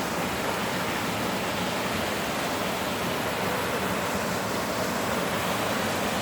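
Water running steadily through the gully of a pond.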